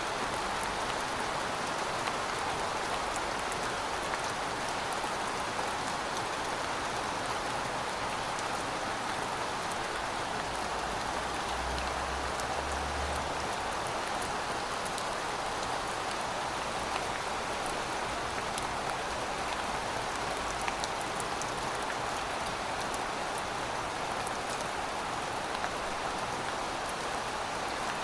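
Heavy rain falling steadily, a constant hiss of rainfall with scattered ticks of drops striking surfaces.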